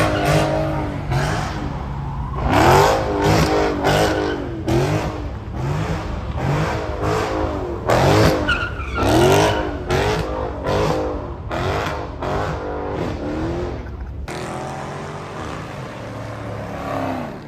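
Car engines revving hard in quick repeated bursts, each rising sharply in pitch, one after another. About fourteen seconds in, the revving eases and the sound thins.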